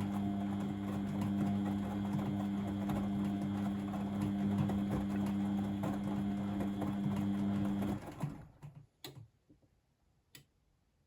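Blomberg WAF 7442 SL washing machine running with a steady hum and a light rattle, which stops suddenly about eight seconds in; two short clicks follow.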